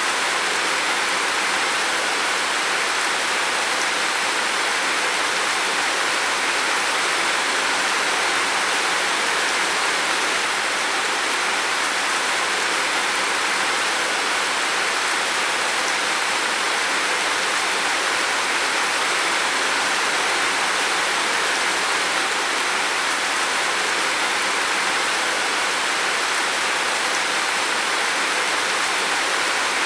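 Heavy rain falling steadily on a roof, a dense unbroken patter without let-up.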